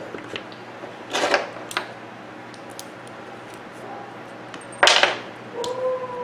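Metal parts of a small fan motor being handled during disassembly: two short clattering scrapes, the second louder and about five seconds in, with a few light clicks and a brief squeak near the end.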